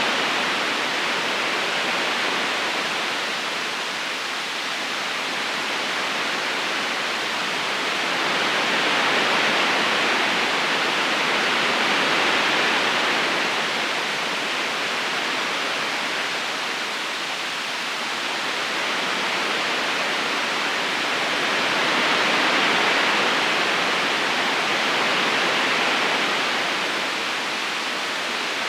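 Steady rushing of flowing river water, an even hiss-like noise that slowly swells and eases every several seconds.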